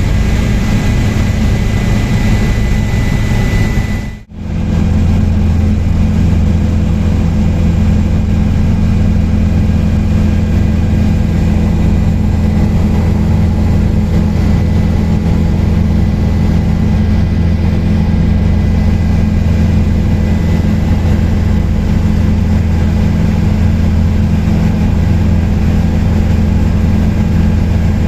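Helicopter in flight: a steady loud drone of rotor and turbine engine with a high whine. About four seconds in the sound drops out for a moment at a cut, then the drone carries on with a heavier low hum and the whine fainter.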